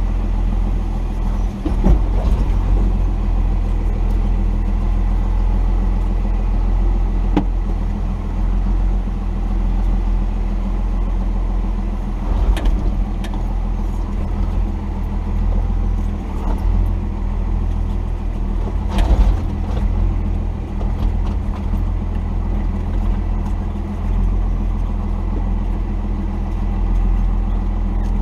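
1990 Dodge D250's Cummins 5.9-litre inline-six turbodiesel running at low, steady revs, with short knocks and clatters a few times along the way.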